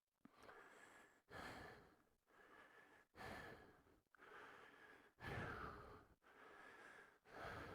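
A man breathing hard: short, heavy in-and-out breaths, about one a second, as when out of breath.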